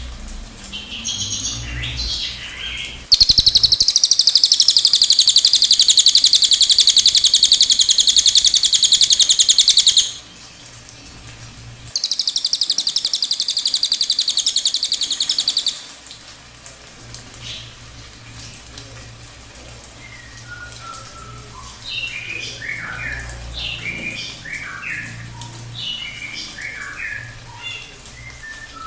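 Recorded birdsong: two long, loud, very rapid high buzzing trills, the first lasting about seven seconds and the second about four. A series of short, quick chirping notes follows in the second half.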